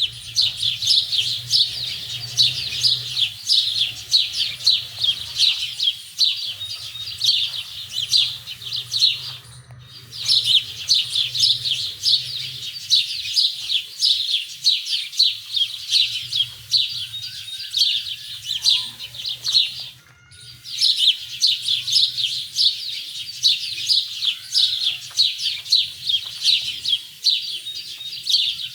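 Many small birds chirping together in a dense, continuous high chatter, broken twice by brief gaps about ten and twenty seconds in. A low steady hum runs underneath.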